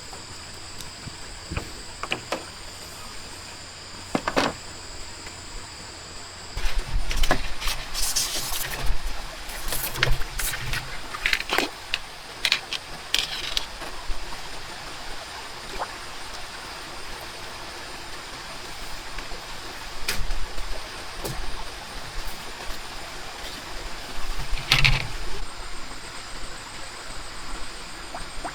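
Steady rush of water with scattered knocks, clicks and clattering handling noises, busiest between about seven and thirteen seconds in and again near the end.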